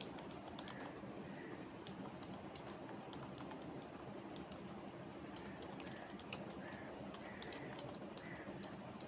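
Typing on a computer keyboard: faint, irregular key clicks at an uneven pace over a steady low background hum.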